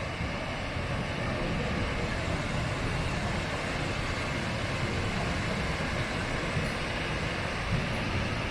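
Steady rushing of a large waterfall, the Upper Falls of the Genesee River, heard from the gorge-side viewpoint.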